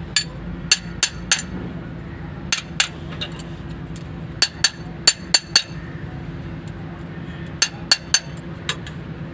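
Sharp metallic clinks of hand tools against the engine during a tappet (valve clearance) adjustment, coming in irregular clusters of two to five, over a steady low hum.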